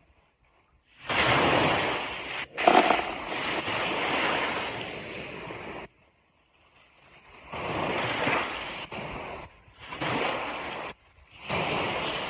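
Sea waves breaking and washing on a beach, coming in separate surges: a long one about a second in, then three shorter ones, with sudden near-silent gaps between them.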